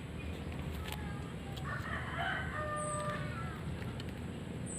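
A rooster crows once, about two seconds in, over a steady low rumble.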